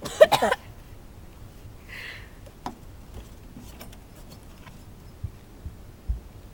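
A person coughing harshly in a short, loud burst, choking on a mouthful of dry cinnamon. A breathy puff follows about two seconds in, then a few faint knocks near the end.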